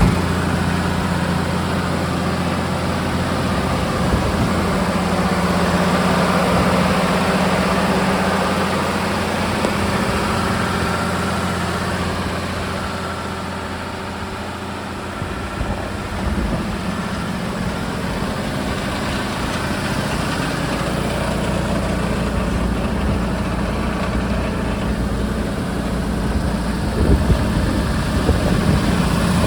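Unimog U1550L's Mercedes diesel engine running steadily at idle, with a few short knocks near the end.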